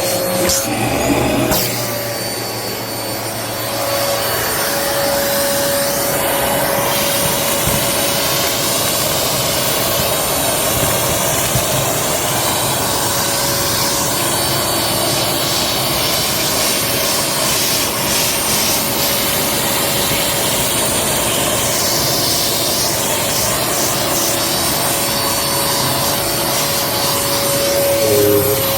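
Vacmaster UC0101 bagless upright vacuum running steadily in tool mode, drawing suction through the crevice tool. Its steady tone dips briefly about two seconds in, then holds.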